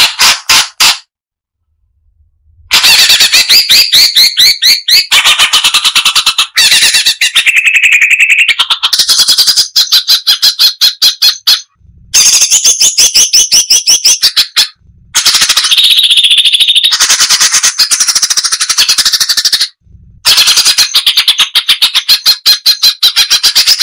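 Striated bulbul (cucak cungkok) singing a loud, fast, tightly packed chattering song of rapid repeated notes, in long phrases broken by brief pauses.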